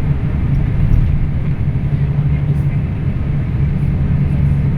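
Scania K340IB coach engine running steadily while the bus is under way, a constant low drone with road rumble.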